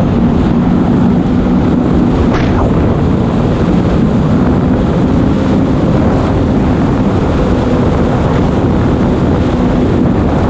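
Jet ski engine running steadily at speed, heavily buffeted by wind on the microphone, with a short hiss about two and a half seconds in.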